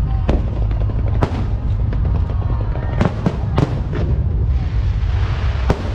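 Fireworks display: aerial shells bursting with sharp bangs over a continuous deep rumble. Several bangs come close together about three seconds in, and another strong one near the end.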